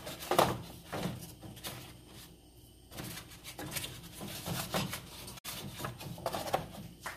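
Kitchen handling sounds: irregular knocks, clicks and scrapes of dishes and utensils being moved about, the loudest about half a second in.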